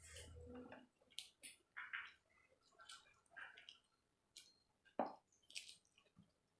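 Faint, intermittent wet chewing and lip-smacking of someone eating tandoori chicken, with a sharper click about five seconds in.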